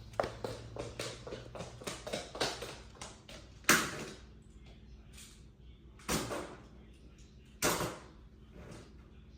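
Hard objects clattering and knocking over the first few seconds, then three loud, sharp knocks a second or two apart, with softer bumps between them.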